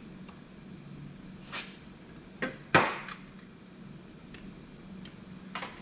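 A few sharp knocks and clinks of metal hand tools being handled and set down during a winch repair, the loudest a little under three seconds in, over a faint steady hum.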